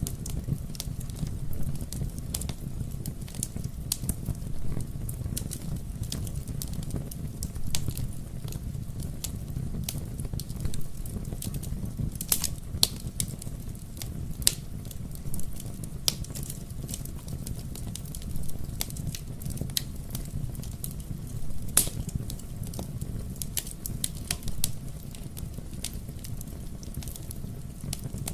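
Wood fire burning in a fireplace: a steady low rumble of flames with irregular sharp crackles and pops throughout, a few louder pops standing out.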